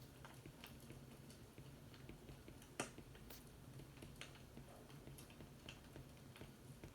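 Faint crackling of a fireplace: scattered, irregular pops and ticks, one sharper pop about three seconds in, over a steady low hum.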